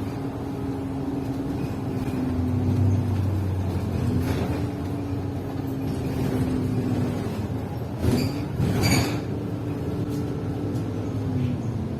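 A city bus in motion, heard from inside the cabin: a steady engine and drivetrain hum over low rumble, its pitch dipping and rising again about four seconds in. There are a few short knocks or rattles, the loudest around eight to nine seconds in.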